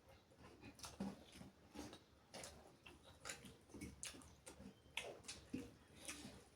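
Faint chewing and wet mouth smacks while eating chicken curry and rice, in short irregular clicks with no steady rhythm.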